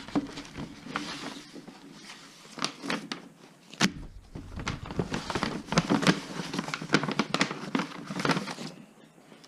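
A mailed package being opened by hand: packaging crinkling, rustling and tearing, with many sharp clicks and one sharp snap just before four seconds in.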